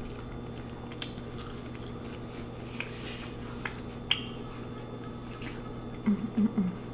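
Wet mouth sounds of someone chewing food close to the microphone, with a few sharp smacks and clicks, over a steady low hum. Short low mouth sounds come near the end.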